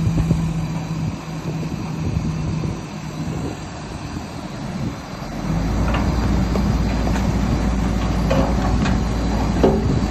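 Heavy earthmoving machine's diesel engine running, its low rumble getting heavier about halfway through, with a few clanks and knocks near the end.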